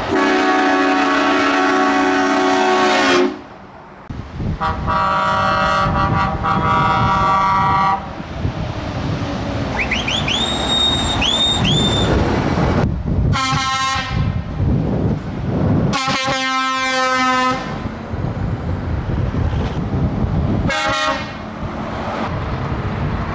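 Truck air horns blowing in a series: two long blasts of about three seconds each, then three short rising toots, then several shorter blasts, over a steady low rumble of truck engines and road noise.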